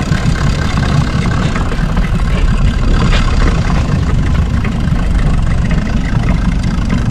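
Fishing boat's motor running steadily.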